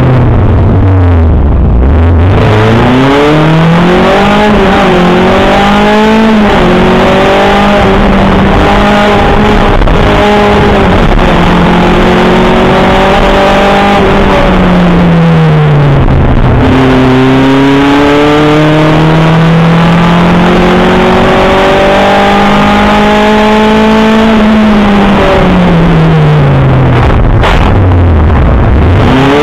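Škoda Felicia rally car's engine heard from inside the cabin, loud and revving hard: its pitch climbs steadily under acceleration, then falls away sharply for the turns, three times over.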